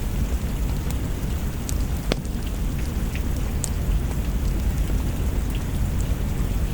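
Steady heavy rain with a deep low rumble underneath and a few scattered sharp ticks, the strongest about two seconds in.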